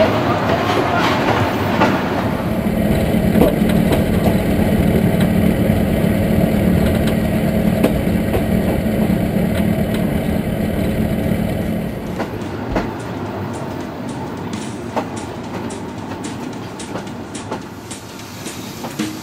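Passenger train running, heard from aboard: a steady rumble of wheels on rails. About two-thirds of the way through it becomes quieter, with sharp clicks about two a second as the wheels cross rail joints.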